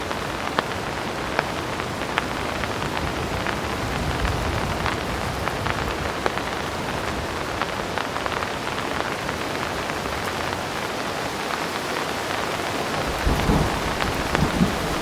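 Heavy rain falling steadily, with many sharp ticks of single drops striking close by. Low thunder rumbles twice, about four seconds in and again near the end.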